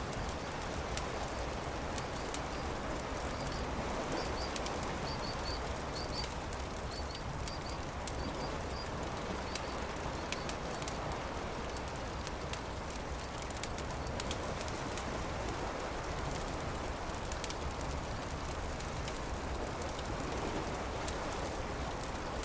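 Campfire crackling, with scattered sharp pops over a steady rushing background. A small bird chirps repeatedly in short pairs through the first half.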